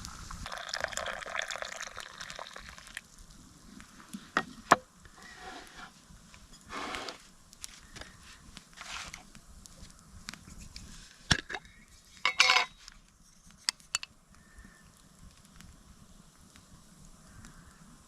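Liquid running or pouring for about three seconds, then scattered knocks, clinks and short scrapes of camp gear being handled, with a brief rattle about twelve seconds in.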